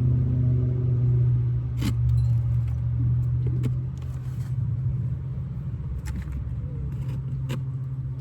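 A group of cars from a car club driving past over a hill: a steady low engine rumble, loudest in the first few seconds and fading toward the end. The beekeeper guesses the cars are Mustangs. A few sharp clicks sound over it.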